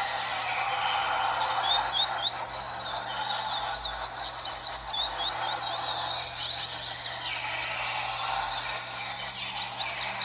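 Several double-collared seedeaters singing at once, their fast chirping phrases overlapping continuously.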